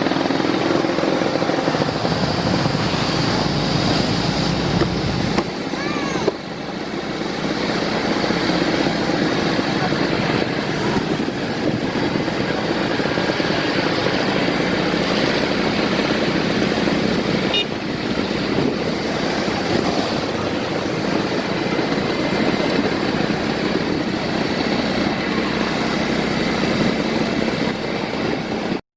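Storm surf and strong wind buffeting the microphone: a continuous loud rushing noise that cuts off suddenly near the end.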